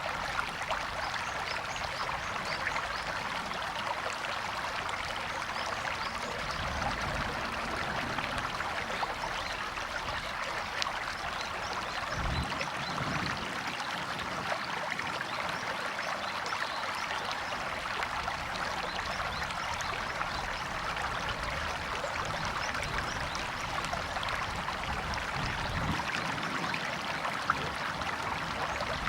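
River or stream water flowing and splashing in a steady rush, with fine trickling detail.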